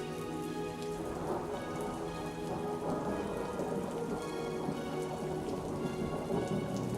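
Steady rain falling, with a rumble of thunder building from about a second in, over soft music with long held notes.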